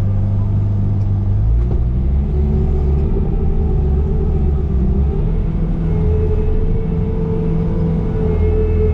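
Bobcat T595 skid steer running steadily while working, with a loud low engine drone and a higher steady whine that shifts up slightly about six seconds in.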